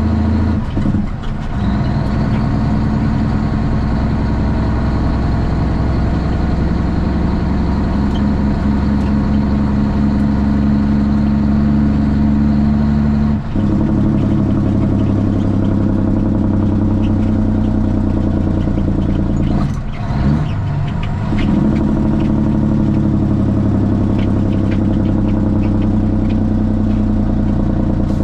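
Straight-piped Cummins ISX diesel in a Kenworth T800 truck running steadily. The engine note breaks briefly about a second in, again about thirteen seconds in and around twenty seconds in, and a faint high whine stops at the second break.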